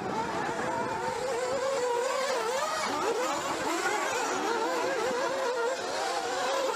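Several nitro RC buggy engines racing at once, their high whines rising and falling as the cars accelerate and brake around the track.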